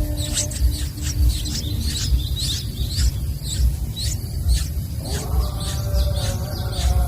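Yellow-vented bulbul chick giving short, high chirps over and over, about two a second, over a low thumping; steady musical notes come in about five seconds in.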